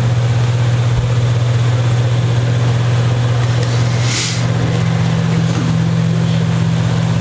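A steady low hum runs throughout, with a short hiss about four seconds in.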